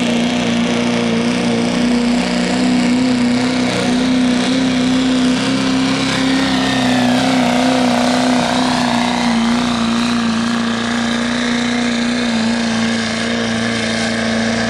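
Turbocharged diesel pulling truck running flat out under heavy load, a loud, steady engine drone with turbo whine above it; the engine note sags slightly near the end.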